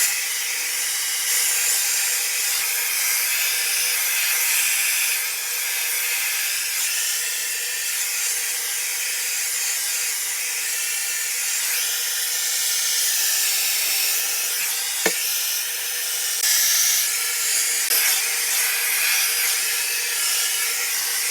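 Conair InfinitiPro hair dryer with built-in diffuser running, a steady rush of blown air with a faint motor whine under it. One brief click about fifteen seconds in.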